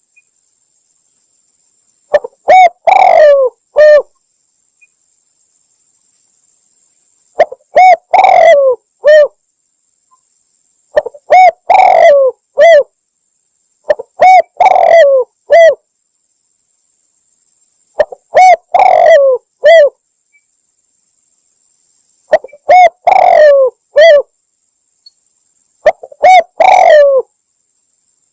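Spotted dove (tekukur) cooing: a loud phrase of three or four short notes repeated about every four seconds, seven times, from a lure-call recording used to draw doves in for hunting.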